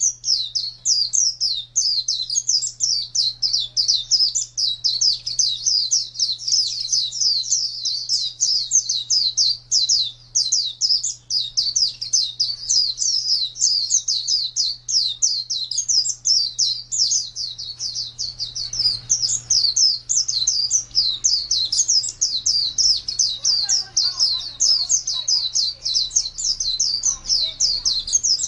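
Pleci (white-eye) singing a fast, unbroken twittering song of quick, high, falling notes, over a steady low hum.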